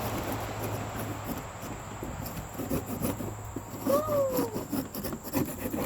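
Irregular scraping and rubbing strokes of a makeshift scraper working stuck-on sand off the floor of a chicken pen. A short call falling in pitch about four seconds in.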